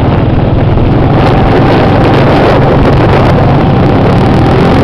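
A small engine running steadily and loudly close to the microphone, with rapid low firing pulses and wind on the microphone.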